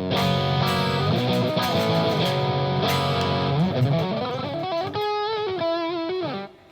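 Electric guitar played through an EarthQuaker Devices Palisades overdrive pedal set to voice 6, Schottky diode clipping, giving a distorted tone. It begins with struck chords, then moves to bent single notes with vibrato on a held note that is muted suddenly near the end.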